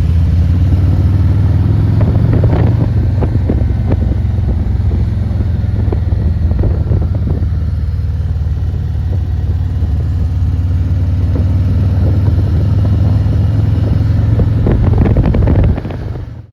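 Motorcycle engine running at a steady cruise while riding, with wind buffeting the microphone. It cuts off suddenly at the very end.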